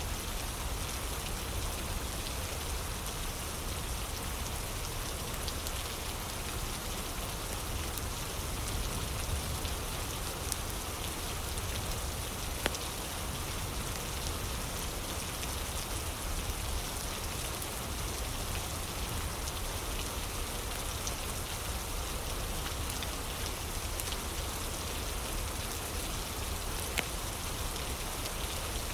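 Steady rain falling, with a few sharp crackling pops from a fire now and then.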